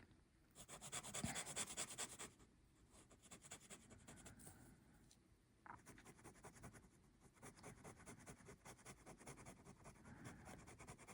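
Faint scratching of a broad-nib Sailor 1911 Large fountain pen writing on paper, in short runs of strokes with brief pauses. The strongest run comes about half a second to two seconds in.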